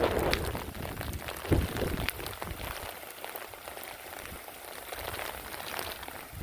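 Wind-driven rain in a storm: steady rain noise with scattered sharp drop hits. Gusts of wind buffet the microphone with low rumbles at the start and about a second and a half in, then ease off.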